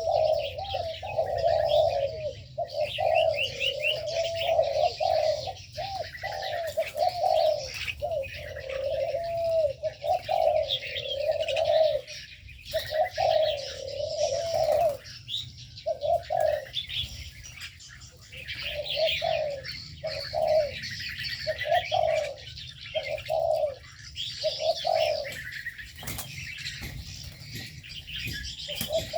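Spotted doves cooing almost without pause, their coos overlapping, with small birds chirping and twittering higher above them. After about fifteen seconds the cooing breaks into shorter bouts.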